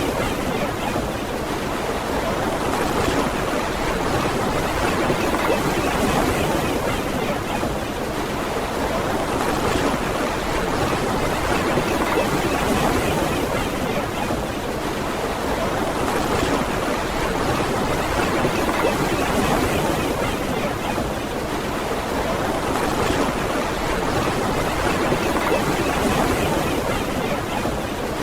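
Ocean surf washing on a beach: a steady rush of waves with gentle rises and falls every several seconds.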